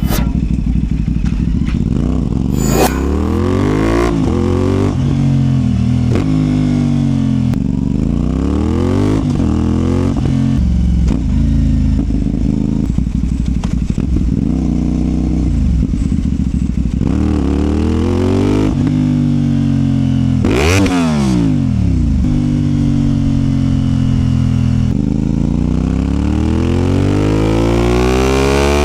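CFMOTO 450SR's 450 cc parallel-twin engine under way, pulling through the gears: the engine note repeatedly climbs in pitch as it accelerates, then drops at each gear change or as the throttle closes. There is a sharp dip and rise in pitch about 21 seconds in.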